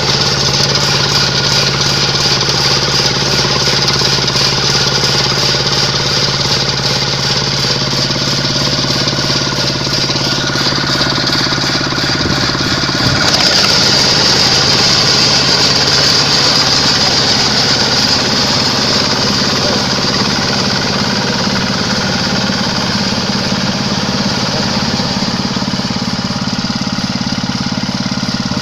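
Quick H-140R combine harvester running, its Kubota diesel engine and machinery making a loud, steady mechanical din with a high hiss over it; the note changes about halfway through.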